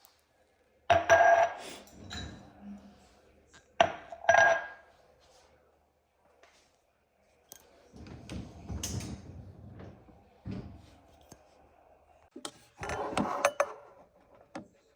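Dishes and glassware being unloaded from a dishwasher and put away: several separate clinks and clattering knocks, some ringing briefly, about a second in, near four seconds and again near the end, with duller knocking and rubbing in between.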